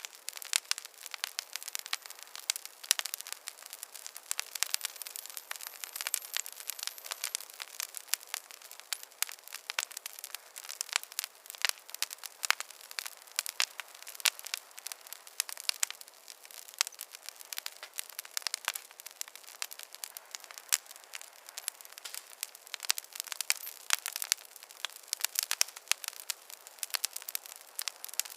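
Wood fire crackling steadily, a dense run of sharp pops and snaps over a soft hiss, with no low rumble.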